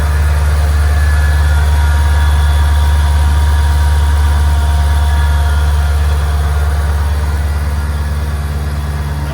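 Shelby Super Snake's supercharged V8 idling steadily after a cold start, its deep low-pitched note holding an even pitch and easing slightly in loudness towards the end.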